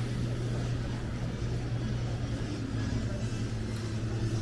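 Steady low mechanical hum, like a running engine or machine, over general city background noise.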